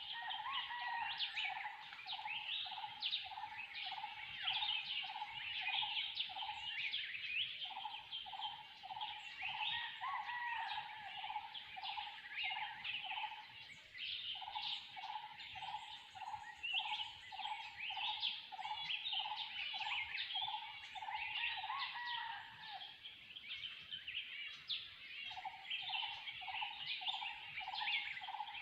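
Forest bird chorus: one bird repeats a single low note about two to three times a second in long runs that break off and start again, over steady high chirping from many other birds.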